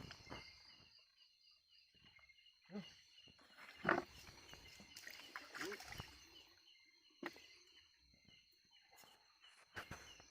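Night insects, crickets trilling steadily with a chirp repeating about four times a second, under scattered rustles and knocks, the sharpest about four seconds in.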